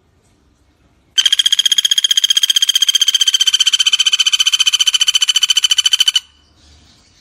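Pelatuk bawang woodpecker giving one long, rapid trill of evenly spaced notes at a steady pitch, starting about a second in and lasting about five seconds before stopping abruptly.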